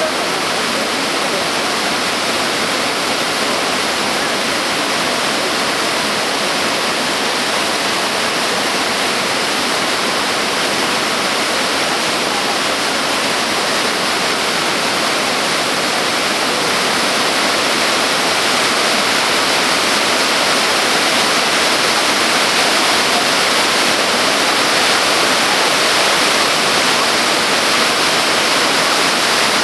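Yudaki, a broad cascade waterfall sliding down a steep rock face, giving a loud, steady rush of falling water that grows slightly louder over the second half.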